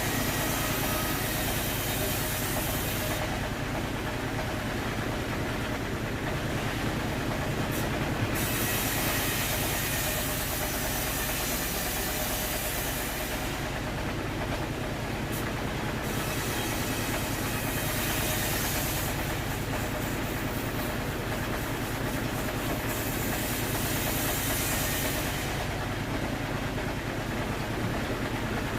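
Sawmill machinery sawing teak logs, running steadily with a low rumble and a high hiss that drops away and returns several times.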